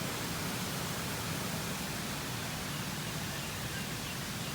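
Steady rush of a waterfall and its stream: an even hiss of flowing water with no breaks.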